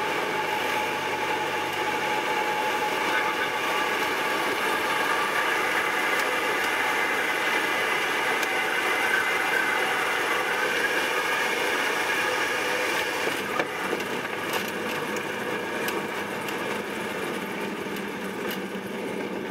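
Cessna 172's piston engine and propeller droning steadily, growing a little quieter over the last few seconds.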